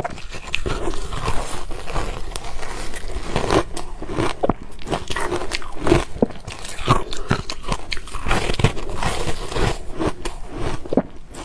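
A person biting and chewing ice, a steady run of sharp, irregular crunches and cracks.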